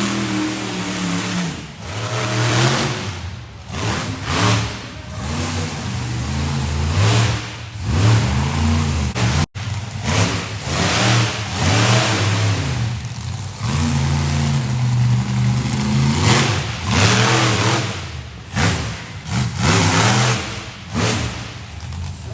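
Monster truck engine revving hard and repeatedly, its pitch climbing and falling with each burst of throttle, with a brief cut in the sound about nine seconds in.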